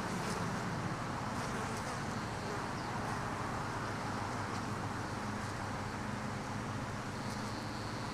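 Honey bees buzzing steadily around an opened hive, a continuous hum.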